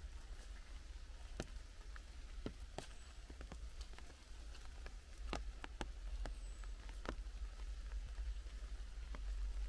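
Raindrops falling in a wet forest: single sharp taps on leaves and the ground at irregular intervals, over a steady low rumble.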